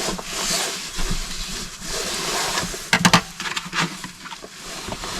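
Wind blowing over the microphone with a low rumble, and a quick cluster of knocks or clatter about three seconds in.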